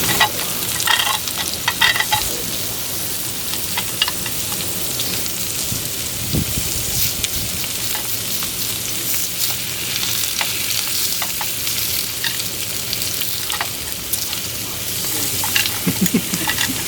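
Thick beef steak sizzling and crackling as it cooks, with a few sharp clicks and scrapes in the first two seconds and again near the end.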